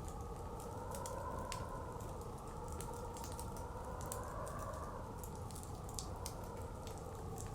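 Fireplace crackling with scattered, irregular sharp pops over a steady rush of blizzard wind. The wind swells slightly in pitch about four seconds in.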